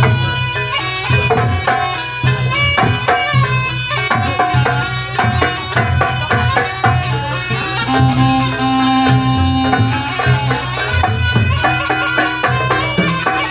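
Traditional Javanese ensemble music, with a hand-drum beat under many layered pitched notes.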